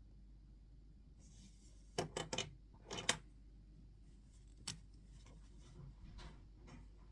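Small objects being handled on a desk: a few sharp clicks and taps in quick groups about two and three seconds in, one more near five seconds, with faint rustling and scratching between.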